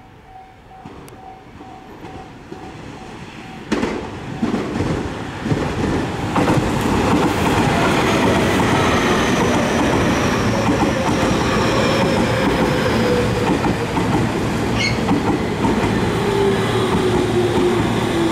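Tobu Tojo Line electric commuter train running close past, quiet at first and then a sudden rise about four seconds in to a loud steady rumble with clattering wheels on the rails. From about the middle a whine falls steadily in pitch.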